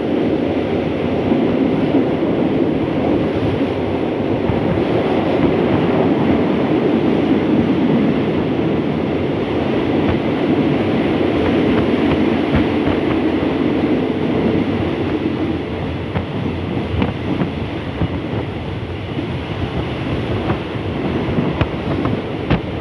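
Passenger train running along the track, heard through an open carriage window: a steady rumble and rush of wheels on rail and passing air, with fast rail clatter throughout, easing a little in the last few seconds.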